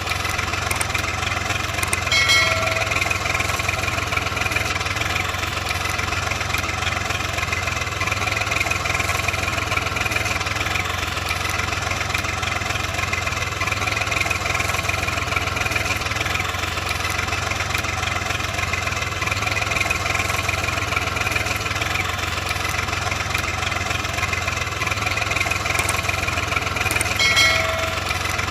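Steady engine running at idle without a break, with a short tonal blip about two seconds in and the same blip again near the end, as in a looped engine recording.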